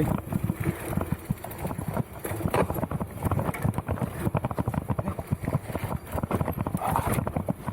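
Mountain bike rattling and clattering as it rides over rough trail ground: a dense run of rapid, irregular knocks and clicks.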